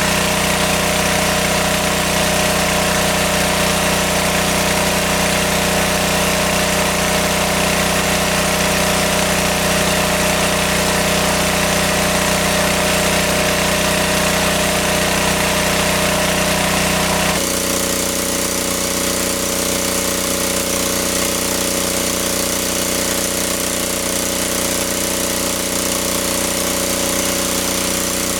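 A small engine running steadily with an even pulsing beat. About two-thirds of the way through, its pitch drops suddenly and it runs on a little quieter.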